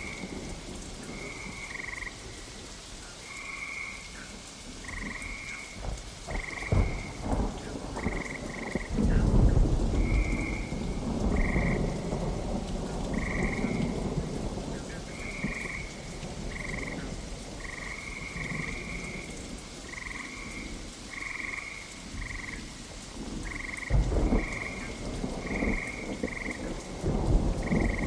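Frogs calling in short croaks about once a second over steady rain. Thunder rumbles about nine seconds in and again near the end.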